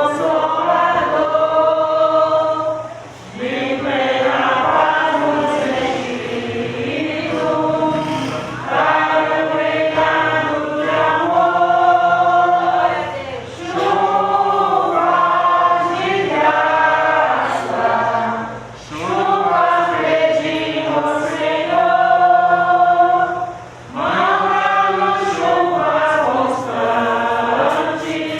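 A woman singing a Portuguese gospel hymn in slow, long-held phrases, with short pauses for breath between them.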